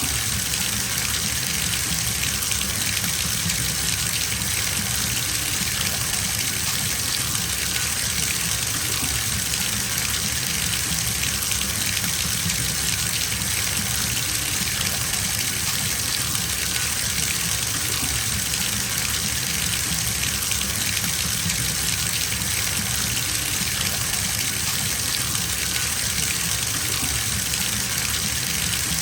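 Water running steadily from a tap into a filling bathtub, an even unbroken gush.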